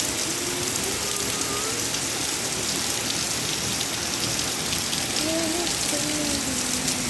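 Steady rain falling, a dense even hiss with many separate drops ticking through it.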